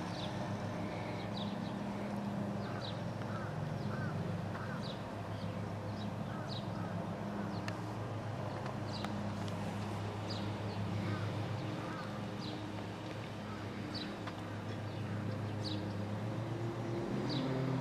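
Birds calling: short high chirps repeated every second or so, with some lower warbled notes, over a steady low drone.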